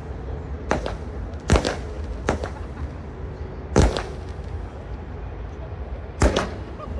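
Fireworks going off: about five sharp bangs at uneven intervals, the loudest about one and a half seconds in and near the middle, each trailing off briefly, over a steady low rumble.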